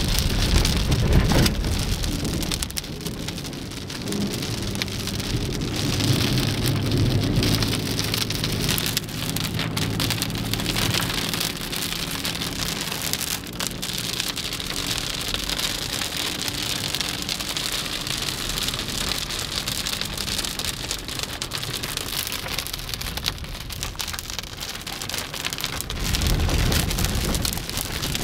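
Moderate to heavy rain falling steadily, with low rumbles near the start and again near the end.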